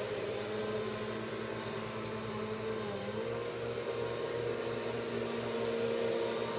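Vacuum cleaner running steadily: a continuous motor hum and rush of air with a thin high whine, the motor note dipping briefly about three seconds in.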